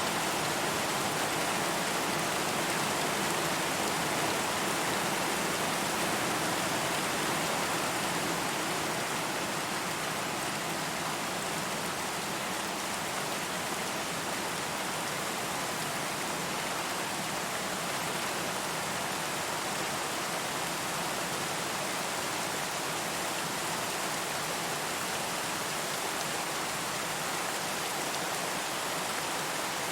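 Steady rain falling, an even hiss with no distinct drops or thunder, easing slightly in level about ten seconds in.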